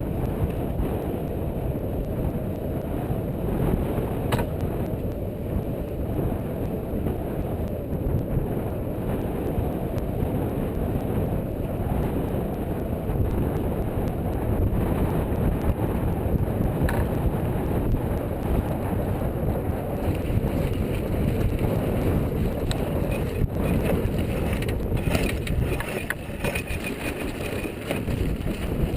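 Steady low rumbling wind noise buffeting the microphone aboard a sailing yacht.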